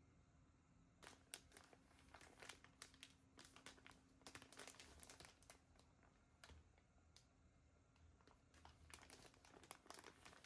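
Crinkling of thin packaging or sheets being handled by hand, in two spells of quick crackles: a longer one from about a second in and a shorter one near the end.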